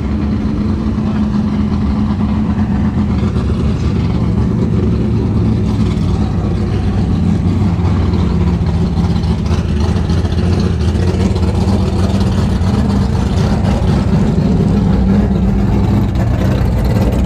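Car engine running close by with a loud, steady low rumble.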